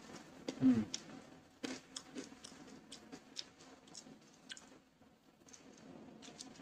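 Crispy fried garlic chips crunching and crackling in short, irregular clicks as they are chewed and picked from a plastic tub. A brief voice sound comes less than a second in.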